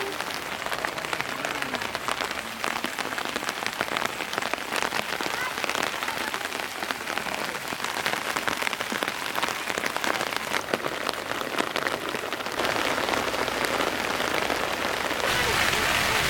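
Steady rain falling, with a dense patter of individual drop hits; it grows louder about three-quarters of the way in and again near the end.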